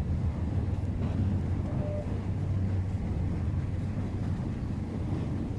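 Passenger train running along the track: a steady low rumble with a constant hum.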